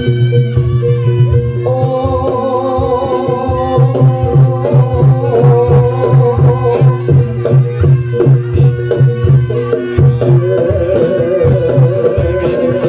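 Live Javanese barongan accompaniment music: sustained melody notes over a drum beat that settles into a steady, driving pulse of about two beats a second from about four seconds in.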